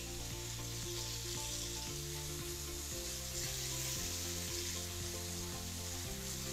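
Marinated paneer pieces sizzling steadily in hot oil in a frying pan, over background music with sustained notes.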